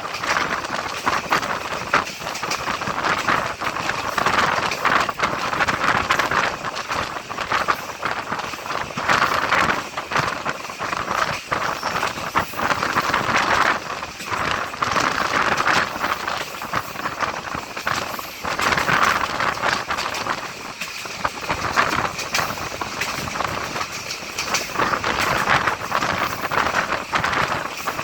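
A train running along the track: a steady running noise with frequent short clattering knocks, swelling and easing every few seconds.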